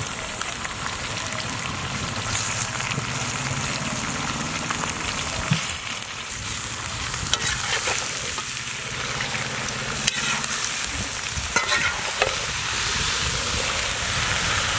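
Raw chicken pieces sizzling in hot oil with shallots and spices in a large black kadai, with a steady frying hiss. A metal spatula stirs and scrapes through the mix, giving a few sharp knocks and clicks against the pan.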